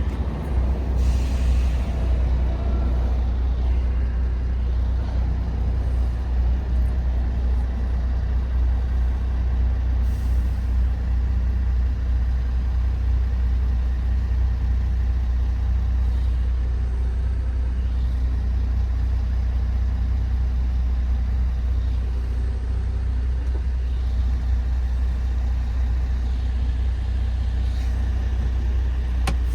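MAN TGX 18.510's 12.4-litre straight-six diesel running, a steady low drone heard from inside the cab. A brief air hiss sounds about a second in.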